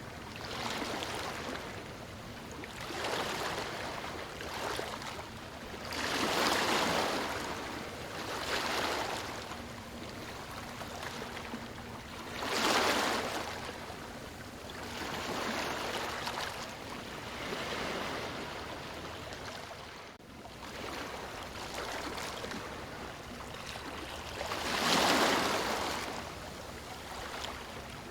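Rushing water that swells and falls in surges every few seconds, with the biggest surges about 6 seconds, 13 seconds and 25 seconds in.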